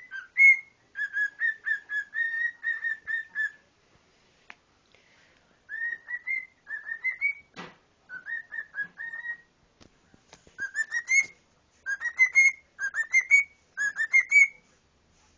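Cockatiel whistling its song in several phrases of quick, short, slightly rising notes, with short pauses between phrases. A single sharp click comes about halfway through.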